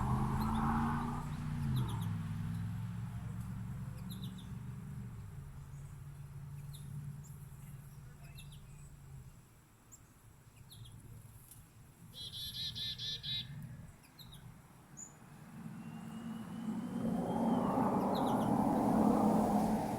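Small songbirds chirping in short, scattered high calls, with one quick trill of about eight notes around twelve seconds in. A low hum fades over the first several seconds, and a louder rushing noise swells near the end.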